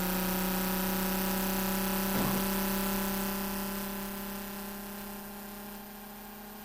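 Engine running at a steady, unchanging pitch, with a brief rough patch about two seconds in, then fading away over the last few seconds.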